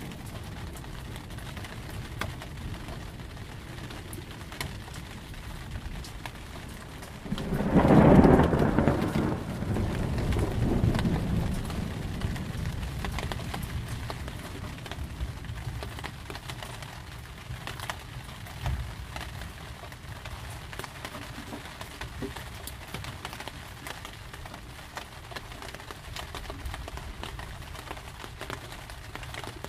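Steady rain falling, with one loud thunderclap about a quarter of the way in that rumbles away over several seconds.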